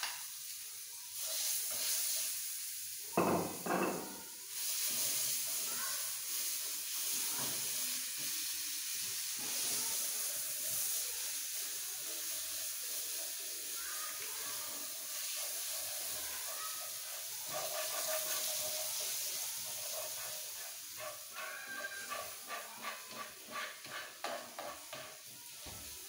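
Pieces of satay meat sizzling as they fry in a frying pan, with a spatula scraping and tapping against the pan. A louder clatter comes a few seconds in, and a run of quick taps near the end.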